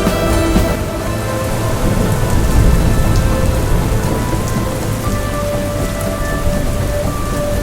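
Steady heavy rain with a low rolling thunder rumble that swells about two to three seconds in, under soft music with long held notes.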